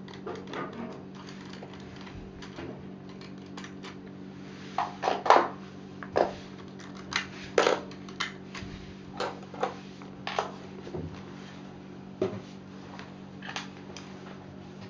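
Hard plastic Lego Technic parts clicking and knocking together as they are handled, a dozen or so irregular clicks with two louder knocks about five and seven and a half seconds in, over a steady low hum.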